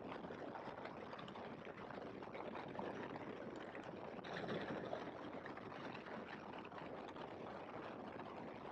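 Faint, steady rushing noise of an open-cockpit biplane in flight, its wind and engine noise picked up only faintly.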